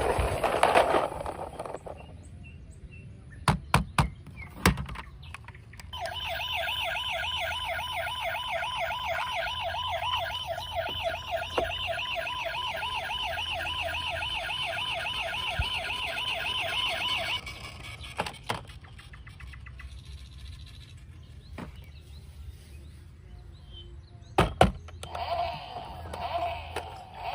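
Electronic toy siren wailing in a fast, steady warble for about eleven seconds, then stopping abruptly. A few sharp plastic clicks and knocks come before and after it.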